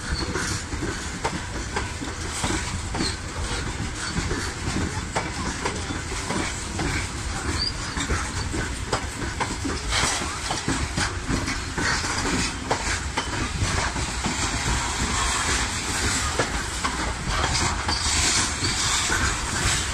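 Freight train of covered hopper wagons and boxcars rolling past, its wheels clicking and knocking over the rail joints above a steady rumble and rattle, a little louder near the end.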